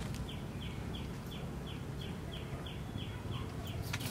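A bird chirping: a short, high, falling note repeated evenly about three times a second, over a low steady background rumble.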